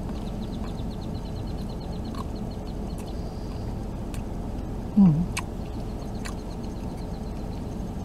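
Steady low hum inside a car cabin while someone chews, with small mouth clicks. About five seconds in comes one short, loud low "mm" that falls in pitch. A faint, rapid high ticking comes and goes.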